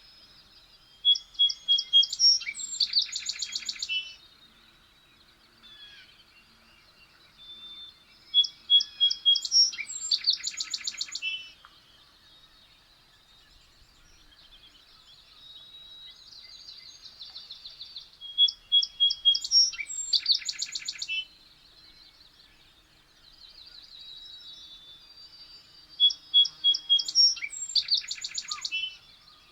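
A songbird sings the same short, loud song four times, about every seven to eight seconds. Each song is a few clear notes that run into a fast trill. Quieter bird song carries on between the songs.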